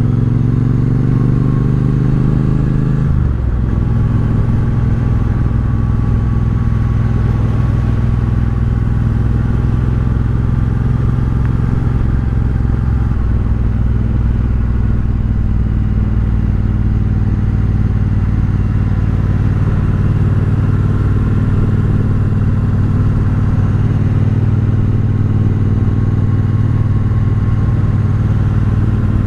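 Triumph Bobber's parallel-twin engine running through a Vance & Hines aftermarket exhaust while riding, heard through a microphone inside the rider's helmet. The engine note holds steady, changing about three seconds in and again around thirteen seconds.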